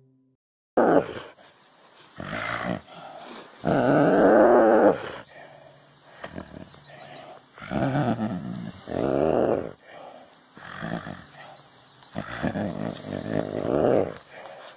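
An animal vocalizing in a series of separate growl-like calls, the longest about a second, with short gaps between them.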